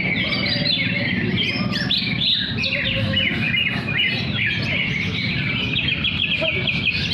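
Green leafbirds (cucak hijau) singing against each other, a dense, unbroken tangle of overlapping quick chirps and warbled phrases.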